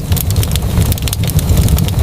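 Fireplace wood fire crackling, with many quick sharp pops over a steady low rumble.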